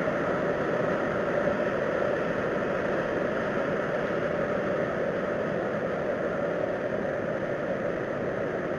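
A steady droning rumble with no breaks, strongest in the middle range and fading slightly over several seconds.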